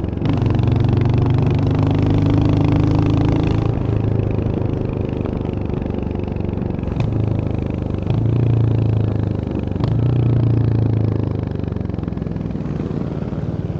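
Royal Enfield Hunter 350's single-cylinder engine running on the move. Its steady thump swells louder in several stretches as the throttle is opened and eased, with two brief clicks in the middle, and it settles quieter near the end.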